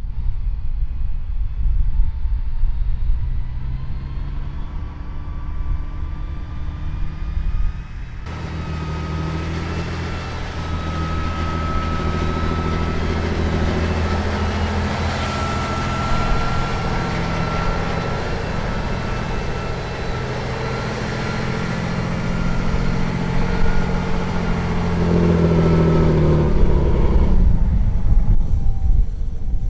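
Heavy truck engine running, with a steady whine above the engine note. About eight seconds in the sound suddenly becomes fuller and louder, and near the end the whine falls in pitch.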